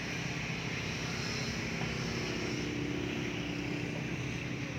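Steady engine drone, with a low hum that grows a little stronger about two seconds in.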